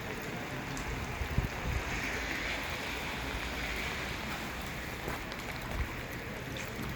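Steady rain falling in an even hiss, with a few short low thumps.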